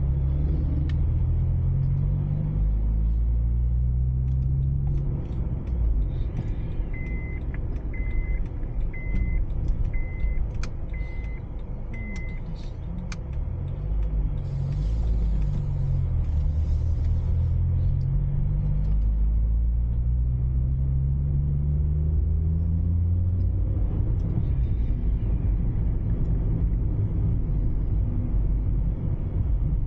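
A car engine heard from inside the cabin while driving, its note rising through the gears and dropping back at each shift, several times over, with steady road rumble. About a quarter of the way in, a short high electronic beep sounds six times, about once a second.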